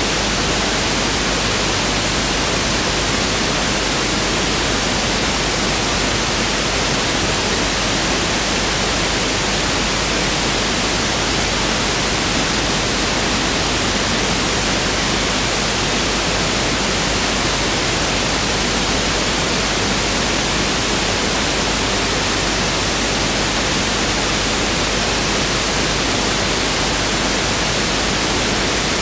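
Pink noise test signal (1/f noise): a steady, unchanging hiss spread evenly across all frequencies, with no variation.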